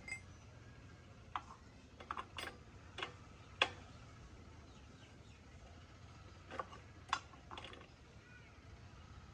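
A scatter of short, sharp clicks and taps, some in quick pairs, over a faint steady low hum.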